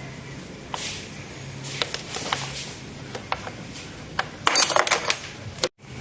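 Light metallic clicks and clinks of an Allen key turning and working the nuts on a motorcycle's headlight housing, with a quick rattling run of clinks near the end before the sound cuts out for a moment.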